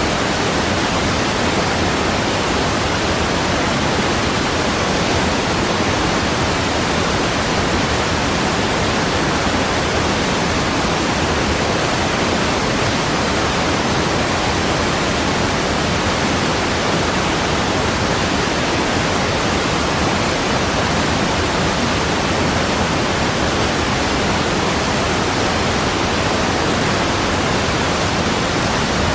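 Rushing water, a loud, steady and unchanging rush with no separate splashes or drops.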